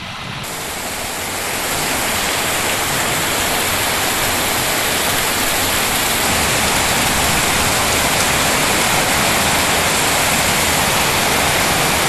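Heavy rain pouring down, a steady dense hiss that swells over the first couple of seconds and then holds even.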